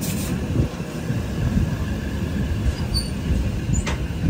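Passenger train rolling slowly out of the station, heard from inside the coach: a low rumble and rattle of wheels on the rails. A few short high squeaks come about three seconds in, and a sharp knock follows near the end.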